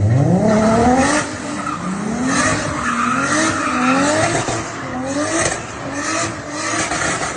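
A car engine revving, its pitch climbing at the start and then repeatedly rising and falling back, with tyre noise that sounds like squealing or skidding.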